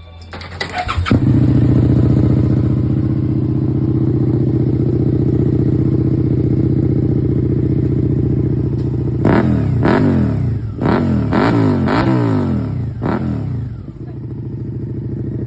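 Suzuki SV650X's V-twin engine, run through a Danmoto muffler with its baffle removed, is cranked by the starter and catches about a second in, then idles steadily. From about nine seconds in it is blipped about six times in quick succession, the revs rising and falling each time, and settles back to idle near the end.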